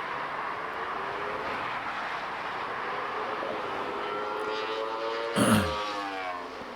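A vehicle at high speed on a motorway: its engine note grows louder as it approaches, it passes with a sudden rush about five seconds in, and the pitch drops as it goes away. Steady road and wind noise underneath.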